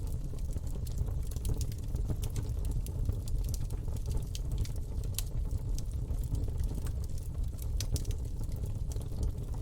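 Campfire burning: a steady low rumble of flames with frequent, irregular crackles and pops from the burning wood.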